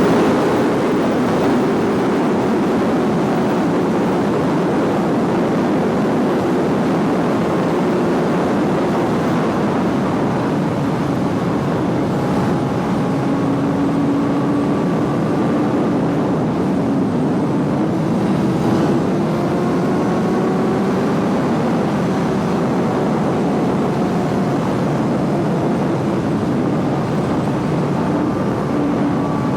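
Suzuki GSX-R sport bike engine running at a steady cruise under a loud rush of wind noise, its pitch drifting slowly up and down with small changes in speed.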